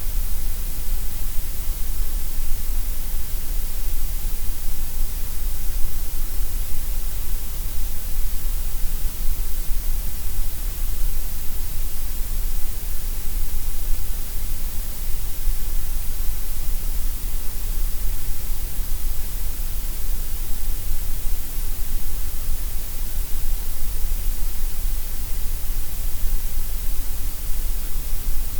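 Gray noise: a steady, unchanging synthetic hiss, heavier in the deep bass and the highest treble than in the middle range.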